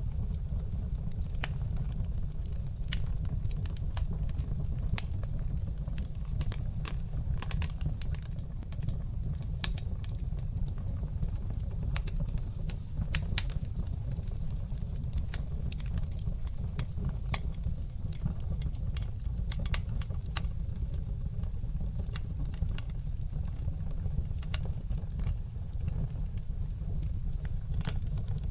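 Fire burning in a fireplace: a steady low rumble from the flames with frequent, irregular sharp crackles and pops.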